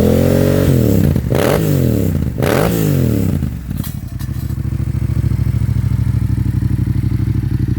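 Yamaha MT-07 parallel-twin engine through a Bzl aftermarket exhaust, revved in a few quick blips with some sharp pops as the revs drop. From about three and a half seconds in it settles to a steady, lumpy idle.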